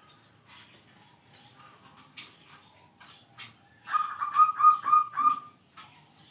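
Zebra dove (perkutut) cooing: a quick run of about six or seven staccato notes about four seconds in. Short sharp high clicks and chirps are scattered around it.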